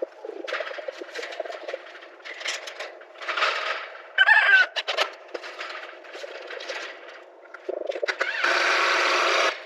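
Chickens clucking and squawking in short irregular calls, one a clear pitched squawk about four seconds in. Near the end a loud, even hiss-like noise lasts about a second.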